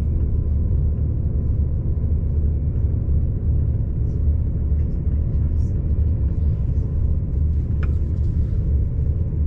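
Steady low rumble of a high-speed passenger train running at speed, heard from inside the carriage, with a faint steady whine above it.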